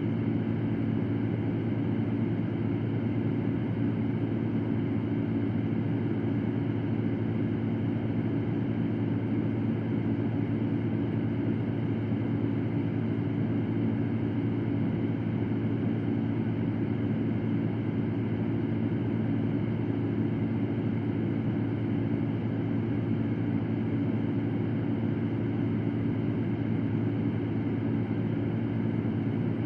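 Electric fan running steadily: an even rush of air over a low, constant hum.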